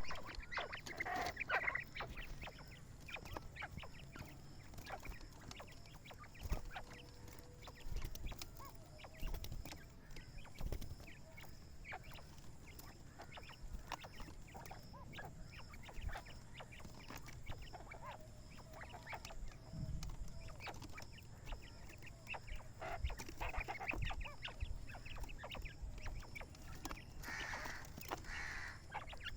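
Quail calling in bursts, with many short clicks in between; the calls are loudest near the start and again near the end.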